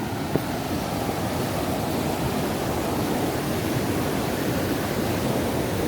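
Water pouring through a dam, a steady loud rush, with one brief click about half a second in.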